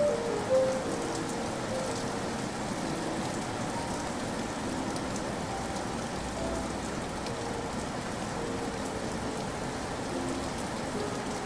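Steady rain falling, an even hiss, with a few faint, slow piano notes sounding now and then beneath it.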